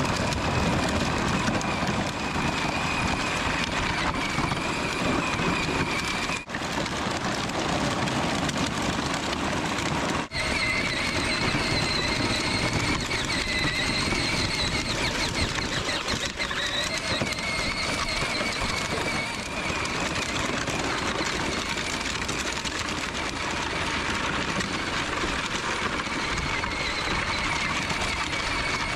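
A small vehicle's motor running steadily with a wavering high whine, cut by two brief dropouts.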